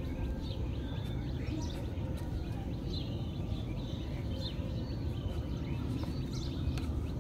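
Small birds chirping repeatedly in the background over a steady low rumble.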